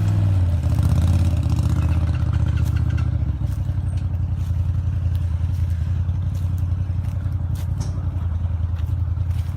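A BRP Maverick side-by-side buggy's engine running at low revs, its note shifting in the first few seconds and then holding steady, with scattered light clicks and rattles.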